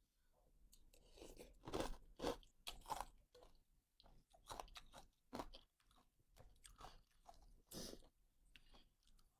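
A person chewing crunchy food close to the microphone, with a run of sharp crunches about two seconds in and another loud crunch near eight seconds.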